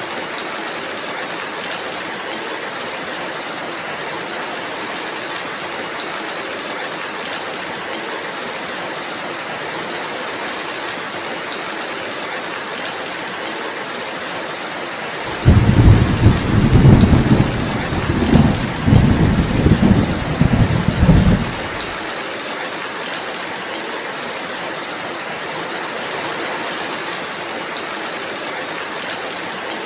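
Steady rain falling, with a deep rolling thunder rumble about halfway through. The thunder starts suddenly, swells several times over about six seconds, then cuts off, and is the loudest sound.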